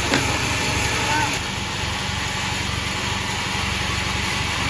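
Sawmill machine running steadily while sawing sonokembang logs, with a sharp knock just after the start. The higher part of the noise eases off slightly about a second and a half in.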